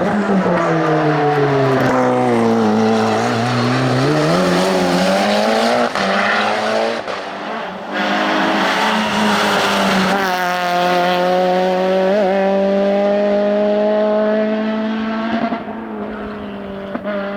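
Race car engines on a hillclimb: an engine's pitch drops and climbs back up over the first few seconds. Later a car holds high revs, its pitch rising slowly, with a short break about twelve seconds in.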